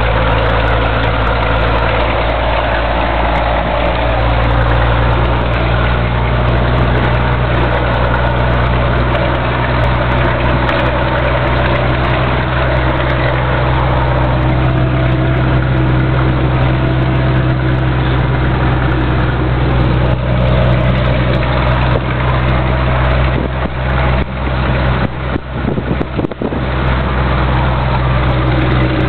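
Scania truck's diesel engine pulling steadily uphill under load, its pitch holding almost even. About three-quarters of the way through, the sound dips sharply several times in quick succession before settling back to the same steady note.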